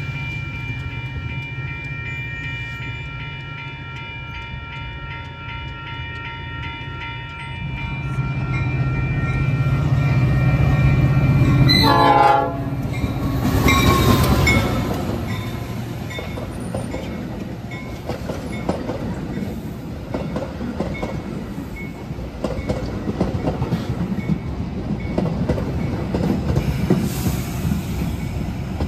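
Metra commuter train arriving behind an EMD F40PH diesel locomotive. Grade-crossing warning bells ring over a low diesel rumble that builds, and a quick falling sweep sounds about twelve seconds in. The locomotive then passes loudly, and the bilevel coaches roll by with a steady clickety-clack of wheels over the rails.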